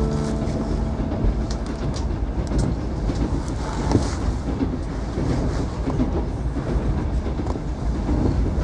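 Passenger train carriage in motion, heard from inside: a steady low rumble of the wheels on the track, with scattered clicks and rattles.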